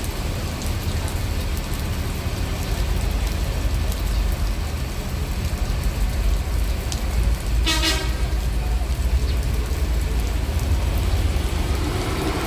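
Heavy rain pouring steadily, with strong wind rumbling on the microphone. About seven and a half seconds in, a bus horn gives one short toot.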